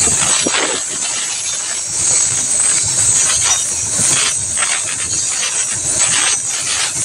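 Loaded flat wagons of a freight train rolling past, their wheels clattering over the rail joints now and then, over a steady high hiss.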